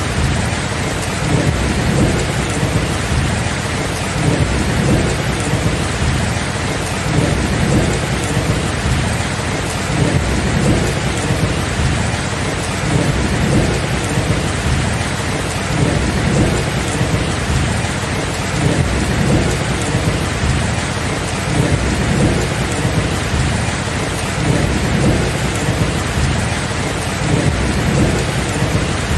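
Steady heavy rain hissing, under a continuous low rumble of thunder that swells and fades without any sharp crack.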